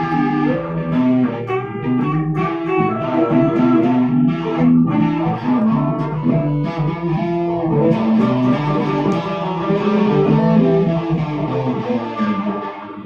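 Improvised blues played on electric guitar: a continuous run of picked single notes and phrases over a low accompaniment.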